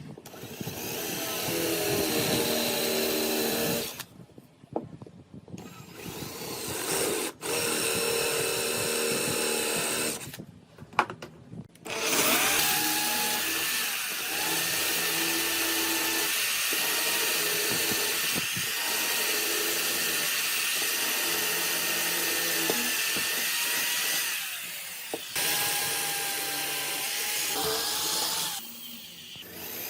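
Electric power tool running in several bursts, a long run in the middle, with its pitch dropping each time it is switched off and spins down.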